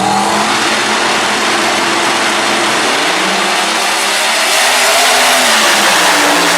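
Drag racing cars' engines running loud and revving at the starting line while staging. The revs rise and fall, and the sound swells about two-thirds of the way through.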